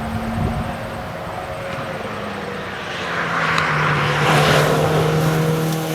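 Porsche 968 Club Sport's 3.0-litre four-cylinder engine running at a steady pitch under road and tyre noise. About halfway through, the engine note drops to a lower steady pitch and the noise grows louder.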